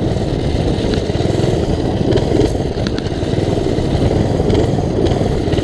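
Old single-cylinder minibike engine running steadily under throttle as the bike is ridden.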